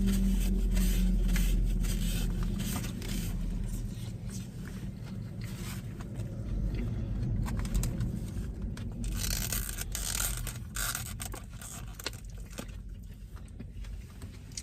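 Plastic takeout packaging rustling and scraping, with a fork scraping in a food bowl, over a low steady rumble that fades after the first few seconds.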